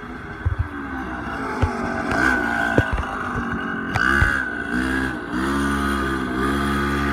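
Small engine revving up and down a few times, then running at a steady speed, with a few sharp knocks.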